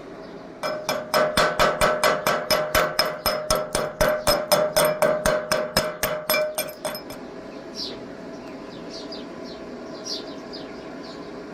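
A hammer striking metal rapidly and evenly, about five or six blows a second, each ringing; the blows stop about seven seconds in. Faint bird chirps follow.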